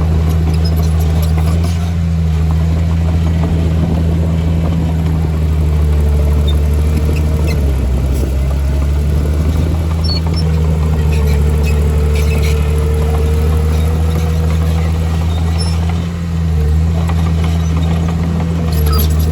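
Heavy diesel engine of an earthmoving machine running steadily under load, a deep, even drone, with a faint higher whine coming and going and scattered small clicks.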